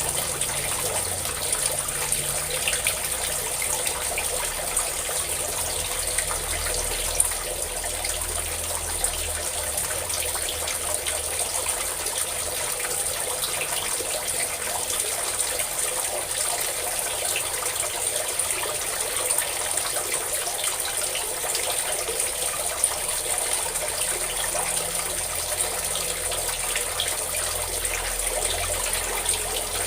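Water pouring in a steady stream, a constant splashing rush with no change.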